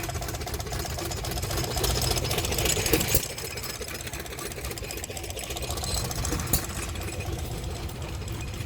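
Antique stationary gas engines running with a fast, steady mechanical clatter and a few sharp clicks.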